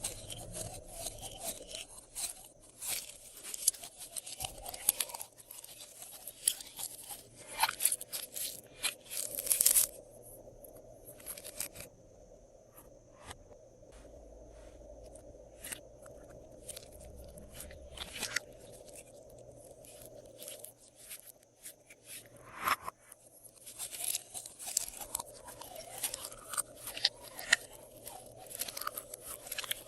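Slime being kneaded and mixed by hand, giving dense, irregular crunching and crackling. The crackles thin out and quieten for a stretch in the middle before picking up again near the end.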